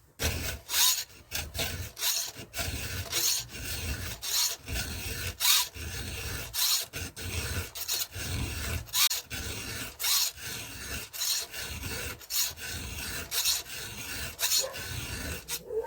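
Chainsaw file rasping across the cutters of a Stihl MS 170 chainsaw chain as it is sharpened by hand, in even strokes about once a second.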